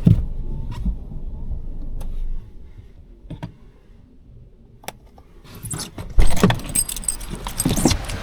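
Clicks and knocks inside a car, the background noise dropping about two and a half seconds in, then a set of keys jangling and clinking near the end.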